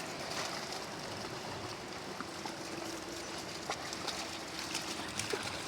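River water running steadily, with scattered small splashes as dogs swim after treats thrown into the water.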